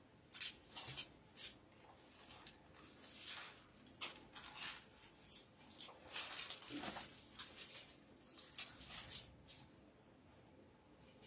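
Faint, irregular paper rustling, like the pages of a Bible being flipped through to find a verse.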